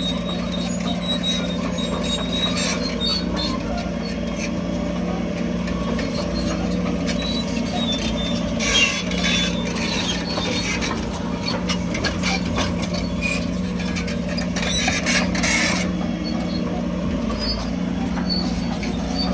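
Crawler bulldozer's diesel engine running steadily under load, with squeaking and clanking from its steel tracks that grow louder around 9 and 15 seconds in.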